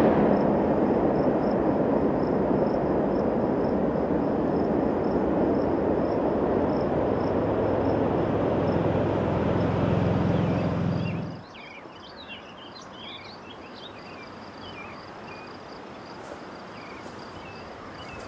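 Rumble of a freight train going by, with a steady low hum under it, cutting off abruptly about eleven seconds in. Then quieter outdoor ambience: bird chirps and a steady high insect trill.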